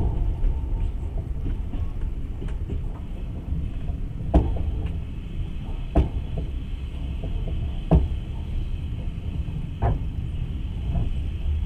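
Passenger train running along the track: a steady low rumble with four sharp clicks about two seconds apart, the wheels going over rail joints.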